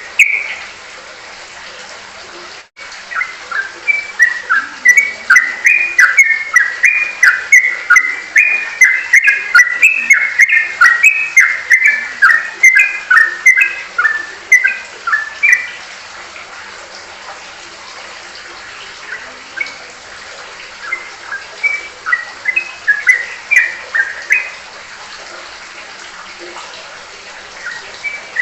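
A songbird singing a rapid string of short chirping notes, about two a second, over a steady hiss, from about three seconds in to about sixteen seconds, then a shorter run later on.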